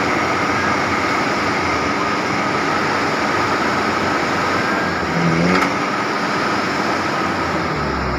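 Motor vehicle engine running steadily amid a steady rush of noise, with a brief low rise at about five seconds in.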